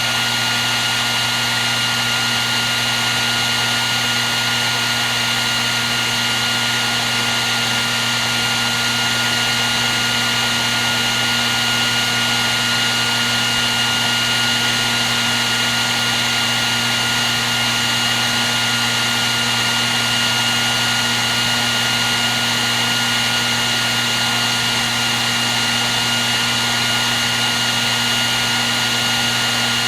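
Hair dryer running continuously: a steady blowing whoosh with a constant motor whine, unchanging in pitch or level.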